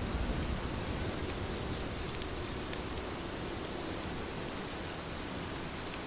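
Heavy rain falling steadily, an even hiss with scattered drop ticks. A low rumble dies away within the first second.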